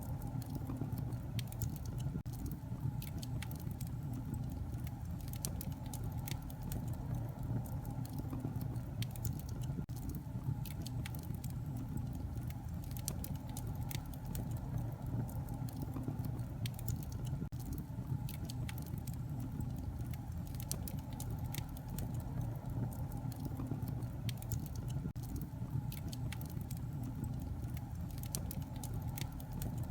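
Wood fire burning in a fireplace, crackling steadily: a continuous low rumble of flames with frequent small sharp pops.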